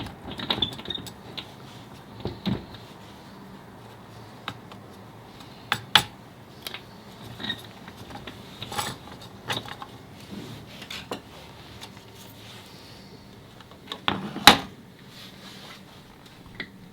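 Metal tools and parts clinking and clicking at irregular intervals as they are handled, with one louder knock near the end.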